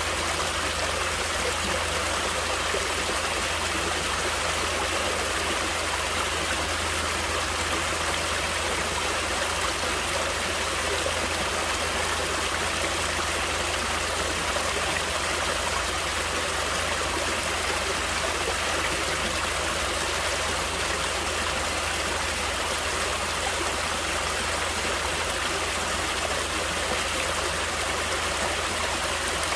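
Natural stream water flowing, a steady even rush with no breaks.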